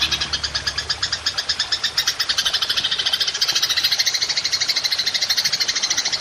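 Belalang emas (golden grasshopper) stridulating in a long, fast, high-pitched chirping trill, about ten even pulses a second, used as a masteran call for training songbirds.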